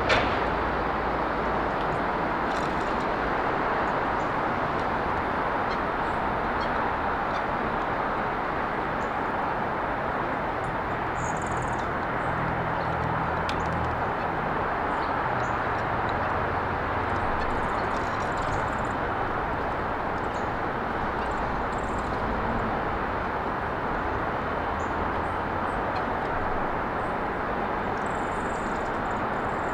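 Steady hum of road traffic, with a low engine rumble swelling and fading in the middle as a vehicle passes. Small birds give short, faint, high chirps now and then, and a brief sharp click comes at the very start.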